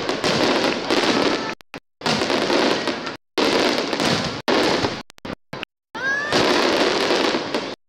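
Aerial fireworks shells bursting in a dense barrage, a continuous rumble and crackle of star bursts, broken several times by abrupt total dropouts of a fraction of a second. About six seconds in, a brief rising whistle comes from a shell climbing on its ascent.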